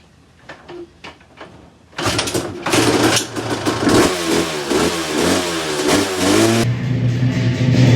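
Motorcycle engine catching after a few faint clicks, then revved up and down. Near the end the sound switches abruptly to a steadier low drone.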